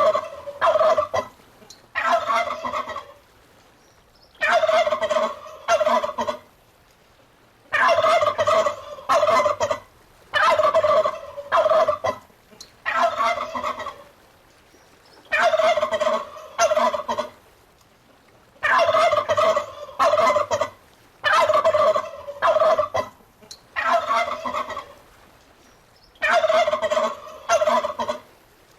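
Turkey gobbling over and over, over a dozen loud rattling gobbles, each about a second long, some coming in quick pairs, with short quiet gaps between.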